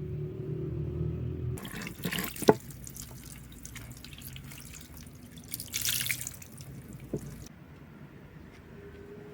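Water pouring and splashing, with a sharp knock about two and a half seconds in and a louder splash near the six-second mark. A low rumble comes before it, and the water starts and stops abruptly.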